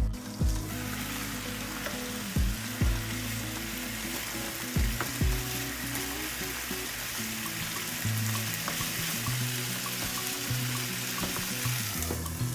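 Pork pieces and onions sizzling as they fry in oil in a frying pan, turned with tongs. The sizzle quiets near the end as a lid goes on the pan. Background music plays throughout.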